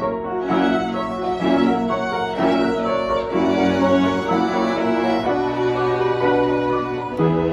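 Live chamber ensemble playing a slow piece, bowed strings carrying sustained notes over a low bass line, the harmony changing about once a second.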